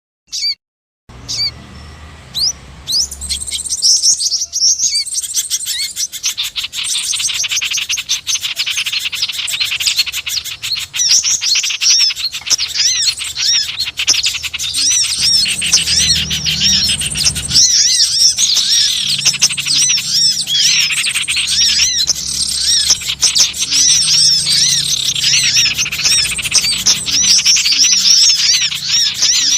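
A dense chorus of many small birds chirping and twittering at once, rapid high calls overlapping without a break, building up over the first few seconds. It is a bird-lure (pikat) call recording of noisy small wild birds, played to draw birds in.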